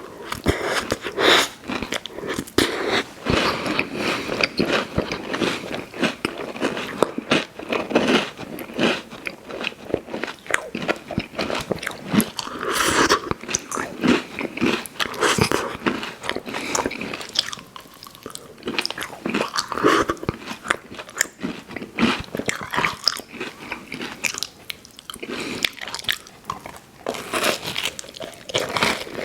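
Close-miked eating of fast-food dessert pies: crunchy bites and chewing with wet mouth sounds, a dense, irregular run of clicks and smacks.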